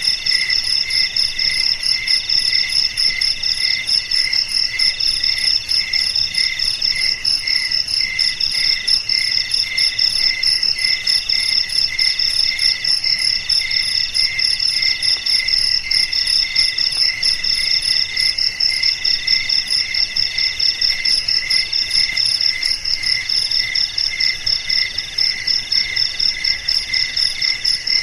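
A chorus of crickets chirping without pause, several of them at different pitches, each a fast steady pulsing trill; one higher voice sings in repeated phrases of a second or two.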